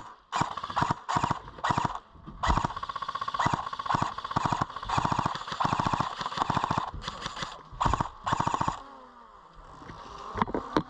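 Airsoft gun firing on full auto in repeated short and longer bursts, each a fast stream of shots. The firing stops about nine seconds in.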